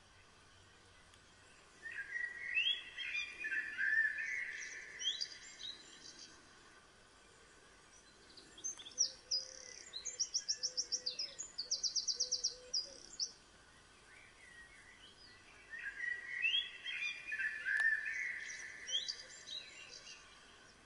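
A songbird singing in three bouts of whistled phrases. The middle bout holds fast trills of rapidly repeated notes.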